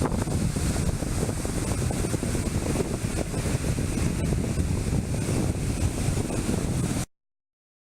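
Strong wind buffeting the microphone over the wash of rough surf on the Sea of Japan after a typhoon. The sound cuts off abruptly about seven seconds in.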